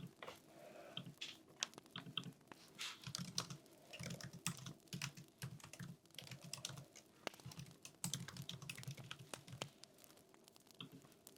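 Typing on a computer keyboard: quick runs of keystroke clicks broken by short pauses, dying away about ten seconds in.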